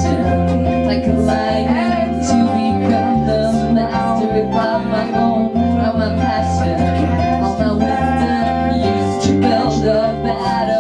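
Live rock-pop band playing an instrumental passage of a song: guitar and held keyboard-like notes over a stepping bass line, with light percussion.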